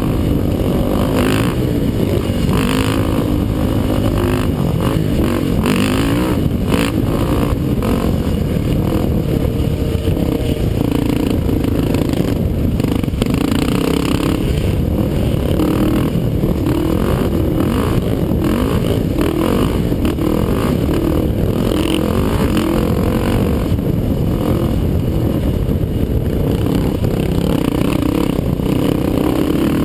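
ATV (quad) engine running hard, its pitch repeatedly rising and falling with throttle and gear changes, with scattered clattering knocks.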